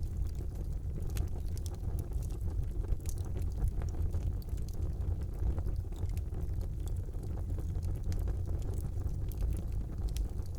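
Wood fire burning in a fireplace: a steady low rumble of the flames with scattered, irregular crackles and small pops.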